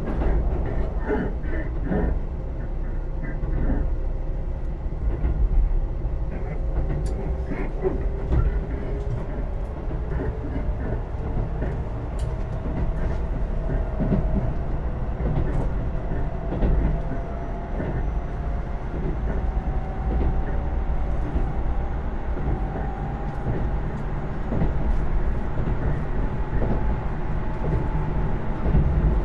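Keisei AE100 series express train heard from inside a passenger car while running: a steady low rumble of wheels on rail with a few clicks over rail joints near the start, and a faint whine that rises slowly in pitch as the train gathers speed.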